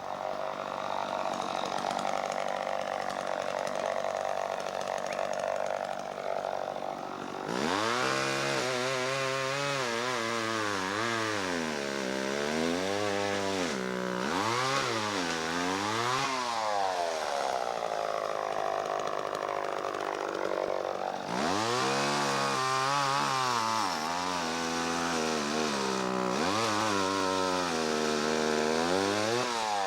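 Chainsaw engine running steadily, then from about seven seconds in revved up and down again and again as it cuts wood, its pitch rising and falling with each surge. It eases briefly about two-thirds of the way through before revving again.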